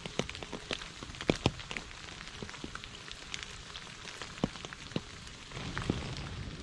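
Rain falling on puddles and wet fallen leaves: a steady hiss with many separate drops striking close by, two louder ones just over a second in. The rain grows a little fuller about five and a half seconds in.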